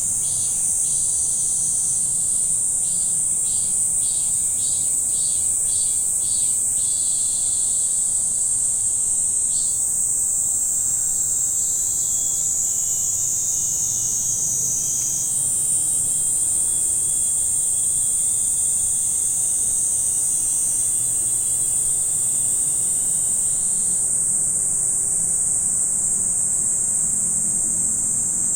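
Loud, steady chorus of summer insects, a continuous high-pitched buzz that shifts pitch in small steps, with a softer pulsing insect call underneath for the first several seconds. A faint low rumble runs beneath it.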